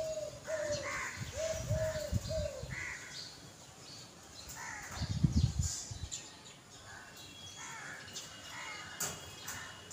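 Outdoor birdsong: a run of short, arched calls repeated about twice a second for the first two and a half seconds, over scattered high chirping that goes on throughout. A brief low rumble about five seconds in.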